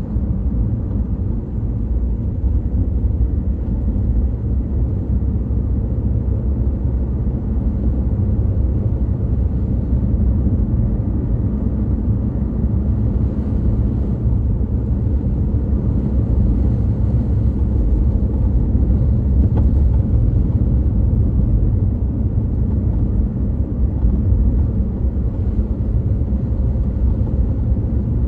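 A car being driven, with a steady low rumble from its engine and road noise.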